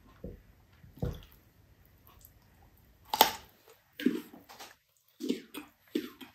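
Close-up eating sounds: a couple of soft knocks, a sharp click about three seconds in, then repeated wet chewing of a piece of mango.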